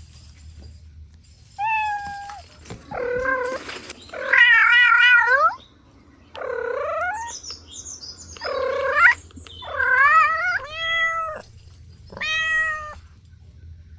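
A cat meowing repeatedly, about eight meows in a row. Some are short and some long, one long meow wavers in pitch, and the meows vary in pitch from call to call.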